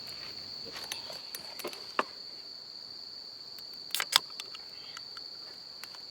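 Night insects trilling steadily at one high pitch, with a few sharp clicks and pops, the loudest a quick pair about four seconds in.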